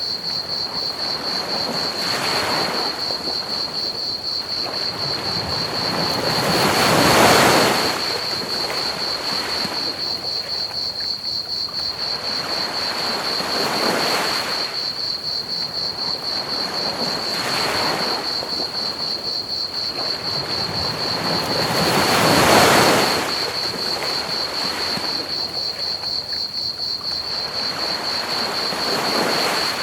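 Ocean waves breaking on a beach in slow surges every few seconds, two of them larger, about a quarter and three quarters of the way through, over a constant high, rapid chirping of crickets and a steady hiss of pink noise.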